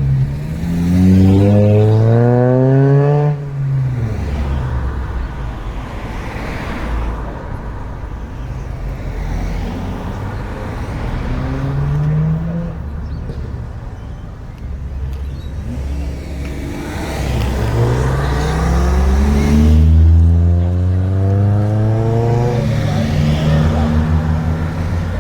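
A car engine being revved: its pitch climbs for about three seconds and drops back, blips briefly near the middle, then climbs again for several seconds before settling into a steady idle.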